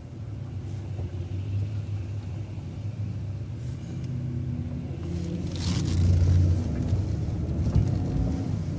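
City bus engine rumbling, heard from inside the bus as it pulls away. The rumble grows louder about five seconds in as the bus accelerates, with a short hiss of air just before.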